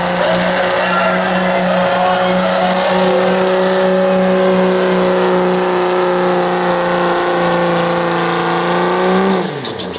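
Turbocharged diesel pickup engine in a work stock 2.5 class pull, held at full throttle at a steady high pitch while dragging the sled. Near the end the throttle is let off and the engine note falls away quickly as the pull ends.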